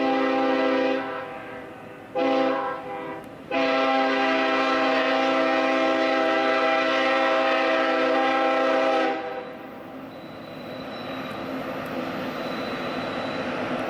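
Union Pacific locomotive's multi-note air horn sounding a grade-crossing pattern: a long blast ends about a second in, a short blast follows, then a long blast held to about nine seconds. After the horn stops, the rumble of the approaching train grows louder.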